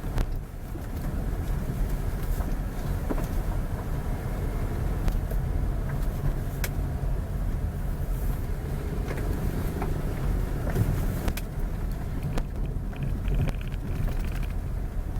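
Steady low rumble of a moving road vehicle, with engine and tyre noise and scattered short clicks and rattles.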